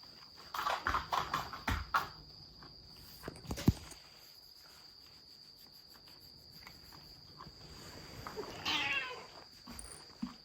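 A domestic cat meows once near the end. Earlier there is a run of light taps and clicks, and one sharp knock about three and a half seconds in. A faint steady high-pitched whine sits underneath.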